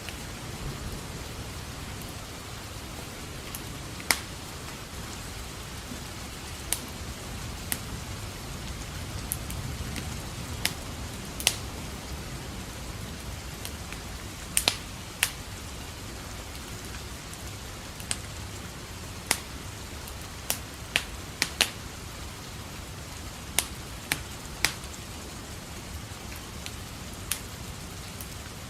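Steady rain falling, with a wood fire crackling over it: sharp, irregular pops, roughly one every second or two, sometimes two or three in quick succession.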